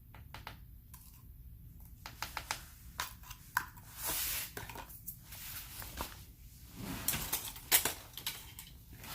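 Irregular small clicks, taps and scrapes of paint-mixing supplies being handled on a tabletop, such as bottles, caps and a mixing tool on a palette, while white neon pigment is blended with gum arabic.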